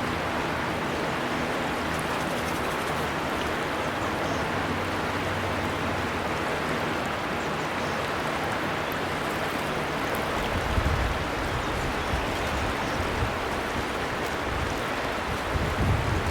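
River water flowing in a steady rush. From about ten seconds in, low rumbling swells come and go beneath it.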